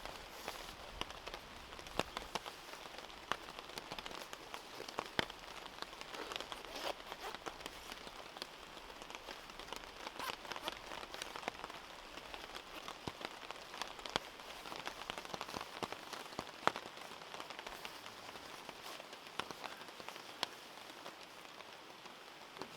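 Steady rain falling, with many individual drops hitting a surface close by as irregular sharp taps over a continuous hiss.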